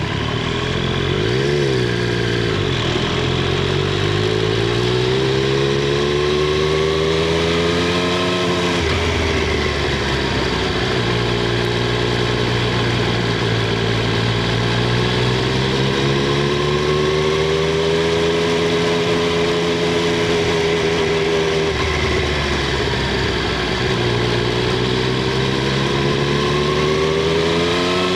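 Triumph Street Triple 765 R's three-cylinder engine and exhaust under way, heard from under the seat. The pitch climbs through the revs, drops sharply about nine seconds in, climbs again and holds, falls back about twenty seconds in, then climbs once more as the bike accelerates and eases off.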